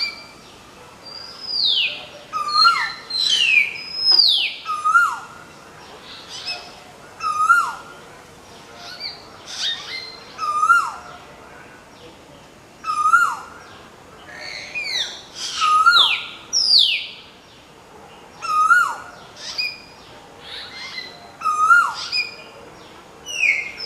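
Common hill myna and Asian koel calling together. There are loud whistles that slide down in pitch, sharp clicky high notes, and a lower call that repeats about every two seconds.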